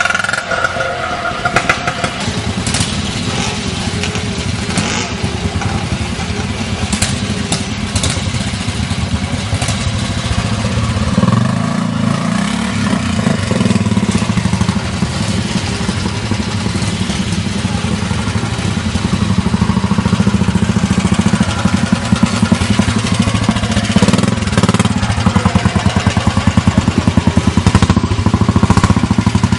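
Classic trials motorcycle engine running at low, uneven revs as the bike is ridden, with occasional clattering clicks; it grows louder over the last ten seconds or so.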